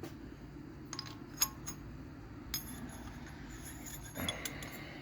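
Light metallic clicks and clinks as steel pushrods are handled and set through the guide holes onto the roller lifters of a GM 4.3 V6. A handful of separate taps, the sharpest about a second and a half in, over a low steady hum.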